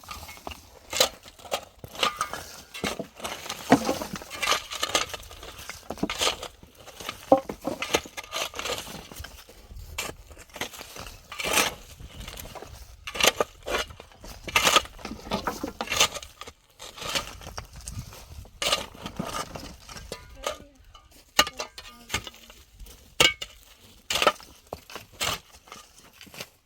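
Irregular clinks, knocks and scrapes of hand work with tools and building materials, many short sharp hits a second or so apart.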